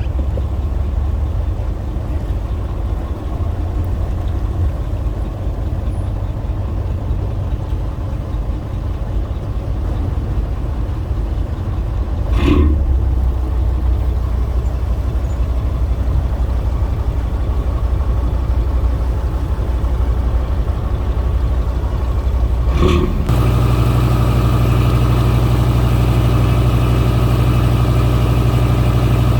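Boat engine running steadily with a low hum. Its note changes twice, about halfway through and again near the end, each time just after a brief sharp sound, and it is stronger over the last few seconds.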